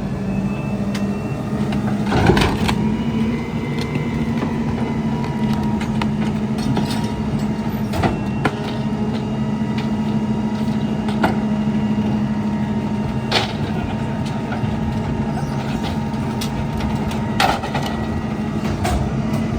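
Garbage truck diesel engine held at raised revs to drive the McNeilus rear loader's hydraulic packer, with a steady hydraulic whine over it. Several sharp cracks and snaps of bulk trash being crushed in the hopper are heard. Near the end the engine drops back toward idle as the packing cycle finishes.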